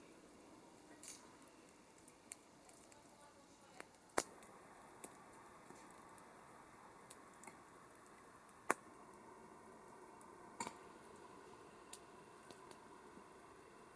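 Wood campfire burning quietly, with irregular crackles and sharp pops over a soft steady hiss; two louder pops about four and nine seconds in.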